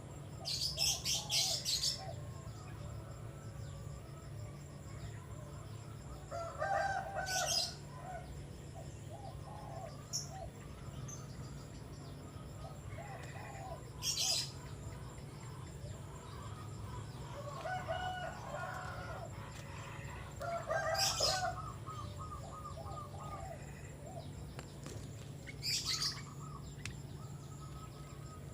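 Brief high chirps from a small nectar-feeding bird, five of them spaced several seconds apart, with chickens clucking in the background.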